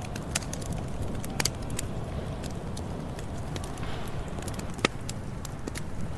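Campfire burning: a steady low rumble with irregular sharp crackles and pops, the loudest one near the end.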